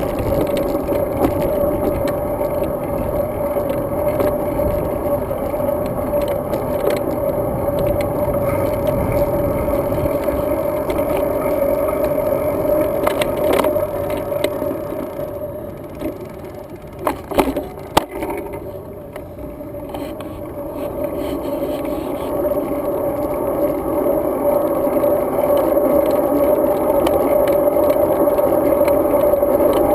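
Riding noise of a road bike: a steady rush of tyre, road and wind noise. It drops off for a few seconds past the middle, where a few sharp knocks sound, then builds again.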